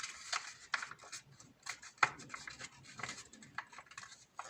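A sheet of paper being folded and creased by hand: irregular crackling rustles and sharp little crinkles, the sharpest about two seconds in.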